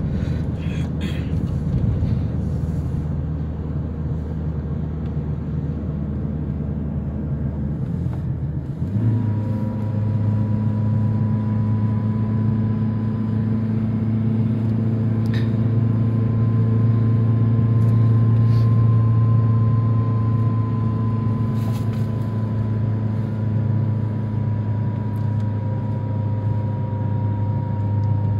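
Vehicle engine and road noise heard from inside the cabin while driving on a highway. About nine seconds in, the engine note changes to a steadier hum with a faint higher whine that holds from then on.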